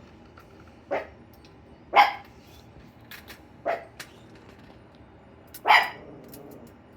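A dog barking four times: short single barks one to two seconds apart, the second and fourth loudest.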